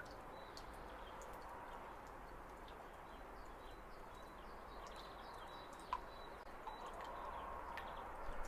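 Garden ambience: small birds chirping faintly over steady background noise, with a couple of sharp clicks about six and eight seconds in.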